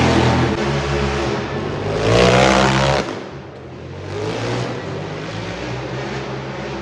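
Monster truck engine revving hard, then dropping off sharply about three seconds in and running on lower and steadier.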